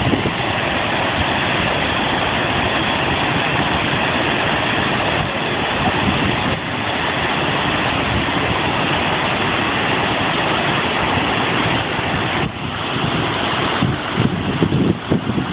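Large waterfall's steady rush of falling water, an even noise throughout, with some uneven low rumbling near the end.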